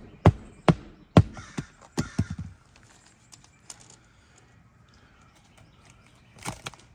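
Hammer driving a roofing nail through an asphalt shingle: three sharp strikes in the first second or so, then a quick run of lighter taps. A short rustle near the end.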